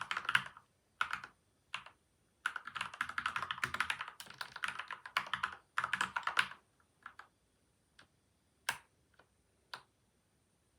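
Typing on a PCL87 mechanical keyboard with lubed Gateron Milky White and Outemu Yellow switches, lubed stabilizers, and tape and foam mods inside the case. Short bursts of keystrokes, then a fast run of typing through the middle, slowing to a few single key presses near the end.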